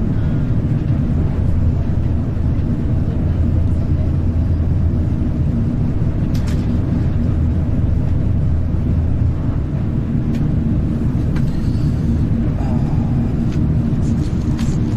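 Steady low rumble of a Shinkansen bullet train running at speed, as heard inside the passenger cabin, with a few faint clicks.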